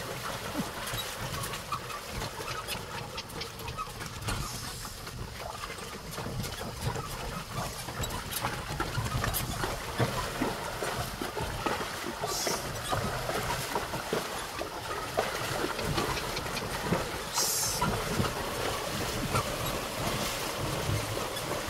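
Carabao-drawn cart moving along a rough path: continuous rattling and knocking of the cart with many small clicks, and a few short hissing bursts.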